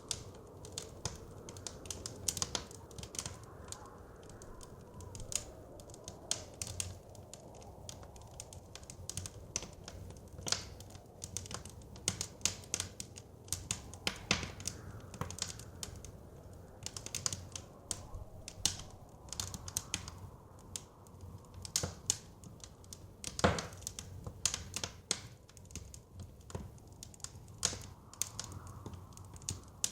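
A wood fire crackling, with frequent irregular sharp pops and one louder pop about two-thirds of the way through, over a low steady wind rumble.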